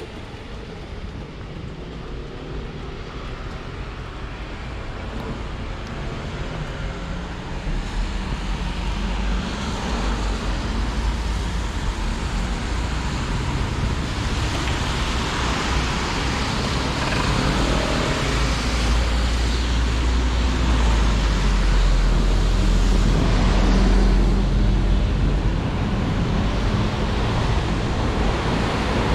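Road traffic: vehicle engine rumble and tyre hiss, growing steadily louder, with a deep rumble coming in about a quarter of the way through and the loudest stretch in the second half.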